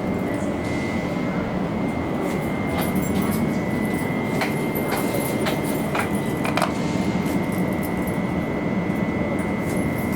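Train at a station platform: a steady rumble with a thin, steady high tone over it, and a scattering of short clicks and knocks in the middle of the stretch.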